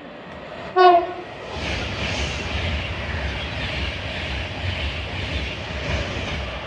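A Class 390 Pendolino electric train sounds a brief horn note, then passes at speed through the station with a loud rush of wind and wheel noise and a deep rumble.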